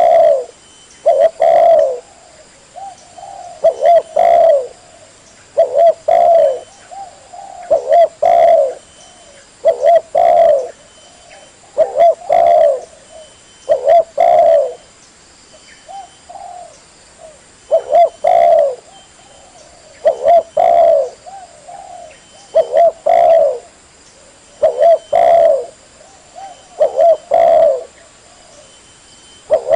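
Spotted dove cooing. It repeats a phrase of a few low coos about every two seconds.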